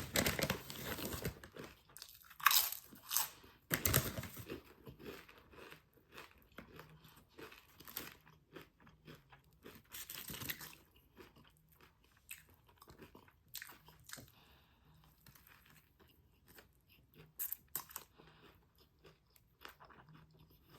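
A person biting and chewing crunchy food close to the microphone: several loud crunches near the start, then quieter chewing with a few more crunches spaced through the rest.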